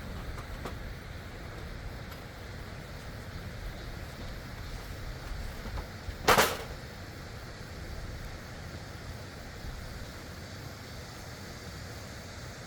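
Stream water rushing steadily and loudly, with one sharp knock a little after halfway.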